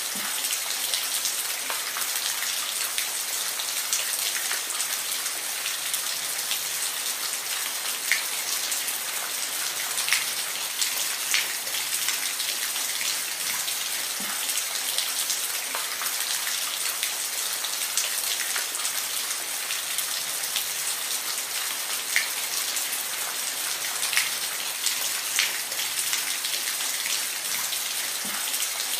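Steady rain falling, an even hiss, with individual drops ticking sharply on a surface every second or so.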